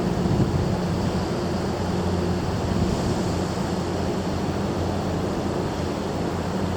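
Steady drone of a large car ferry's machinery, a low hum under a constant wash of wind and water noise.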